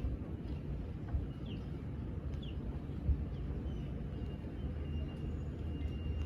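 Steady low outdoor rumble with a few soft thumps, a few faint short chirps and a thin high whistle in the second half.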